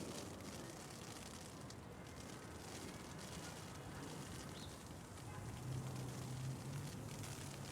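Steady patter of hail mixed with distant city traffic noise. A low vehicle engine hum comes in about five seconds in and holds.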